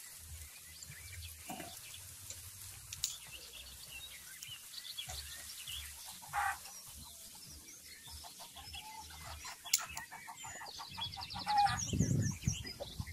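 Farmyard chickens clucking and small birds chirping, with a few sharp clicks of split kindling being laid into a sheet-metal wood stove. A louder, lower animal call comes near the end.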